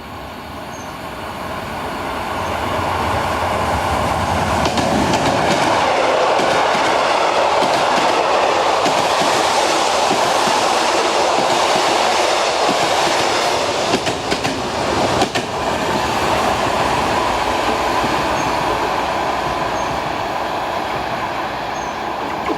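A train running past at close range: wheel and rail noise builds up, holds loud and steady with a few sharp clicks about two-thirds of the way through, then begins to fade near the end.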